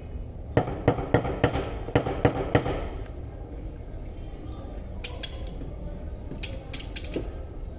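Hammer tapping on sheet metal: a quick run of about eight sharp knocks, followed a few seconds later by several lighter clicks.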